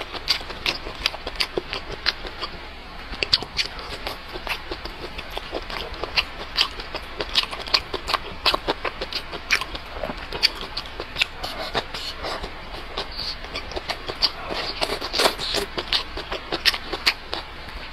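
A person chewing food close to the microphone, with an irregular run of sharp mouth clicks and smacks.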